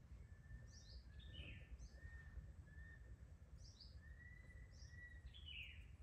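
Faint bird calls: a scatter of short falling chirps together with a row of short, even whistled notes, over a low steady rumble.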